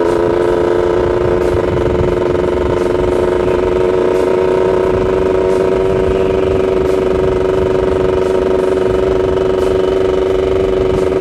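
Yamaha F1ZR's two-stroke single-cylinder engine running under way at a steady cruise, its pitch rising slightly in the first couple of seconds as the bike picks up speed, then holding steady.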